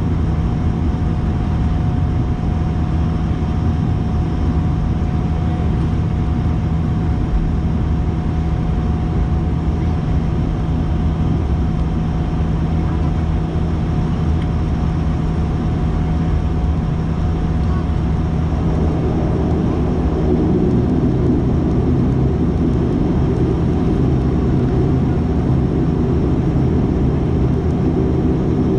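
Cabin sound of a Dash 8-400's Pratt & Whitney PW150A turboprop engines and six-blade propellers, heard from a window seat, running steadily. About two-thirds of the way through, the engine and propeller tone shifts and grows slightly louder as the power setting changes.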